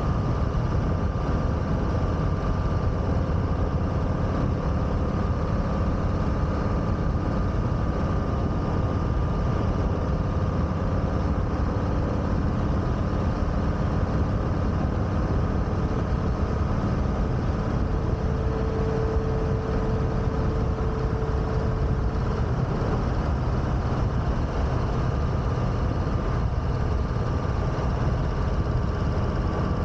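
2021 Harley-Davidson Sport Glide's Milwaukee-Eight 107 V-twin engine running steadily under way, a low rumble that holds one even engine speed throughout.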